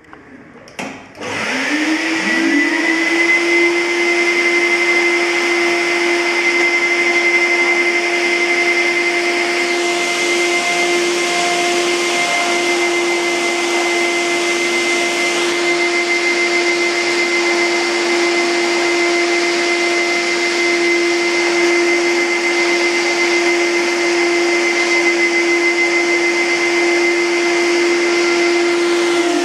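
Industrial wet/dry vacuum cleaner (WD 602) switched on with a click about a second in, its motor spinning up over a couple of seconds to a steady high whine with rushing airflow, then running steadily.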